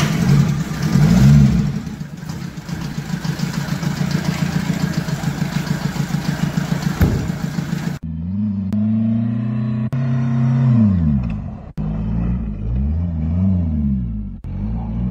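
Mercedes-Benz W124's engine running in a garage, revved briefly about a second in, then running on with a steady pulsing beat. After a cut, the engine revs up and down repeatedly as the car slides around on snow, on its first test after a clutch replacement.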